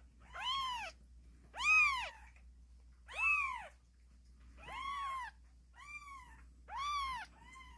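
Young kittens meowing, a series of about six loud separate calls roughly a second apart, each rising and falling in pitch.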